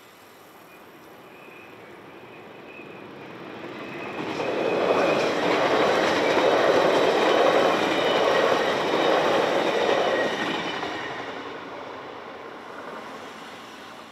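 Passenger train passing over a level crossing: its rumble builds over the first few seconds, it is loudest as it rushes past from about five to ten seconds in, and it fades away near the end.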